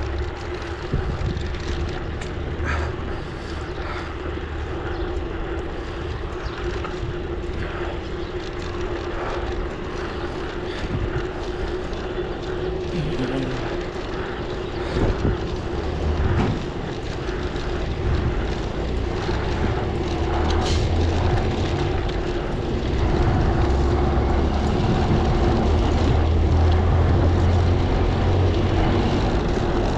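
Wind rushing and buffeting over a moving camera's microphone during a ride on the road, with steady tyre and road hum underneath. It grows louder past the two-thirds mark.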